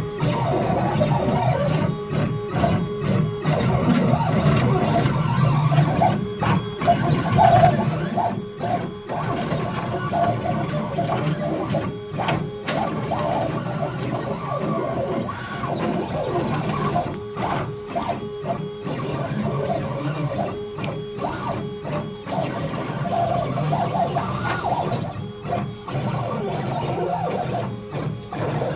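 CNC machine with a drag knife cutting rigid foam board: its stepper motors whine at shifting pitches as the head moves along the cut path, with frequent brief stops and starts between moves.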